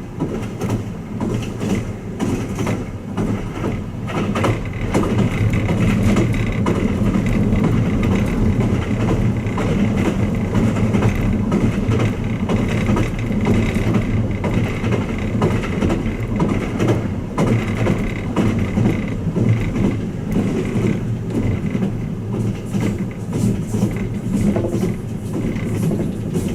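Running noise of the Twilight Express Mizukaze diesel-electric hybrid train heard inside a passenger cabin: a steady low drone from the engine and the wheels on the rails, with many small clicks and knocks. It grows a little louder about five seconds in.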